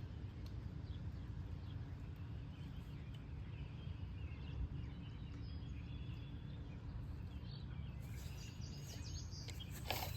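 Outdoor pond-side ambience: a steady low rumble with faint, scattered bird chirps.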